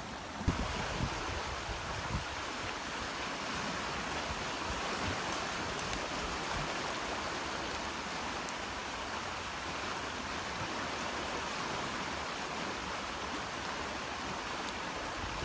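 Steady rushing of a river in flood running high past the island, with a few faint knocks in the first couple of seconds.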